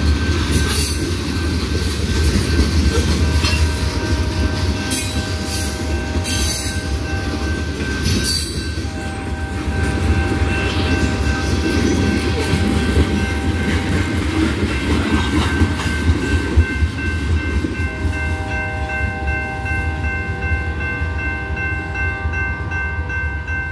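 Loaded freight cars rolling past: a steady rumble of steel wheels on rail with occasional clanks, and several thin high steady tones that come and go throughout.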